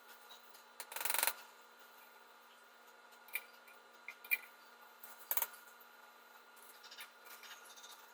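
Small hand-tool work: a brief rasping scrape about a second in, a shorter one about five seconds in, and a few small clicks between, over a faint steady hum.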